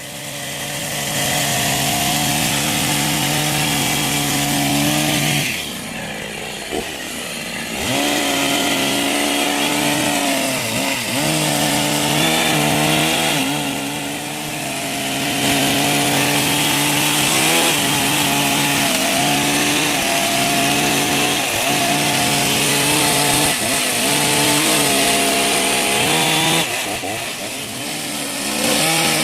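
Chainsaw running and cutting into a wooden log, its engine easing off briefly three times between cuts.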